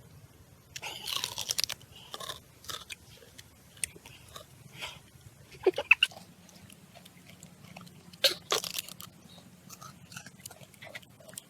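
A pet crunching and chewing food, in irregular bouts of crackly bites with pauses between them.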